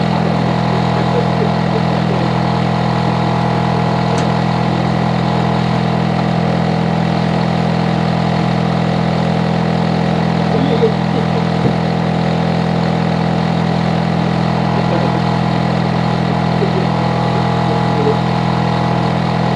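Hitachi air-conditioner outdoor unit running steadily: a loud, constant hum with several steady tones. The noise is loud enough to be treated as a noise nuisance.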